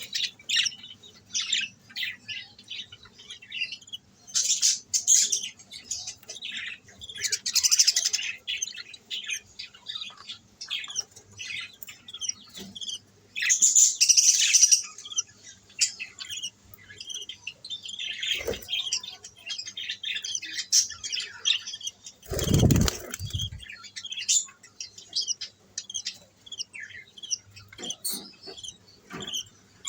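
Budgerigars chirping and chattering continuously, with louder bursts of calls every few seconds. A dull thump comes about two-thirds of the way in.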